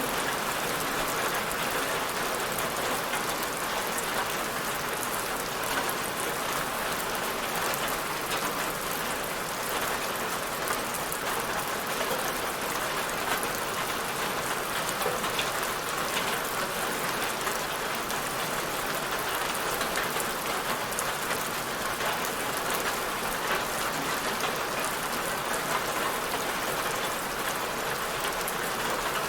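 Steady rain falling on a surface, an even hiss with many small drop patters and no change in intensity.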